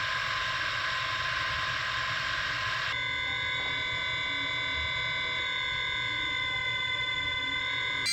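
DJI drone motors spinning with no propellers fitted, a steady high whine made of several tones at once. About three seconds in the whine changes abruptly to a different, cleaner set of steady tones, as a different drone's motors take over.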